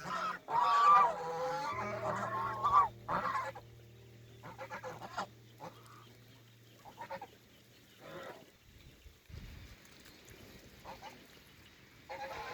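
Domestic geese honking: a run of loud honks in the first few seconds, then fainter, scattered calls.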